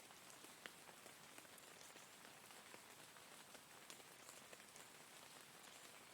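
Steady, quiet rain: an even hiss of rainfall with scattered individual drops tapping on a surface.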